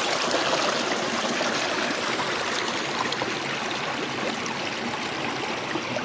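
Running water flowing steadily, like a small stream.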